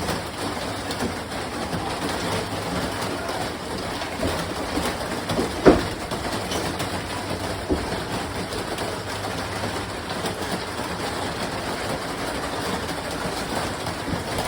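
Steady rumbling noise, with a sharp knock about halfway through and a fainter one shortly after.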